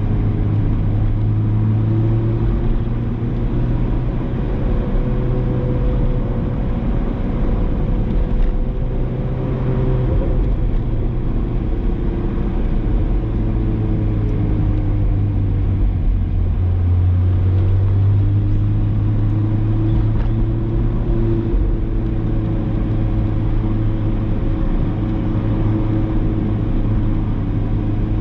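Ferrari 458 Spider's 4.5-litre V8 through an aftermarket Brilliant exhaust, running at low, steady revs while driving, its note rising and dipping slightly a couple of times.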